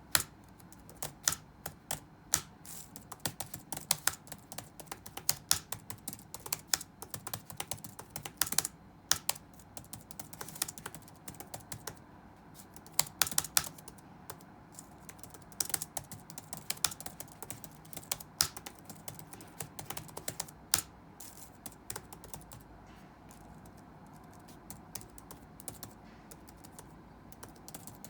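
Computer keyboard typing: irregular keystrokes in quick bursts with short pauses, thinning out for a few seconds near the end, over a faint steady room hum.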